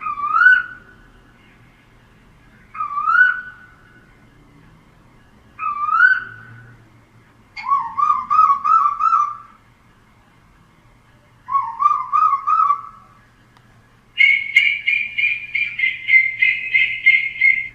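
Koel calling: three loud rising whoops about three seconds apart, then two bubbling runs of quick rising notes, and near the end a fast, higher-pitched series of repeated notes lasting about three seconds.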